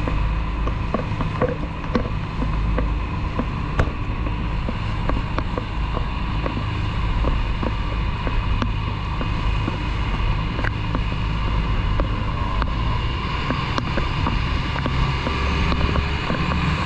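A boat's engine running steadily, with scattered light knocks over it.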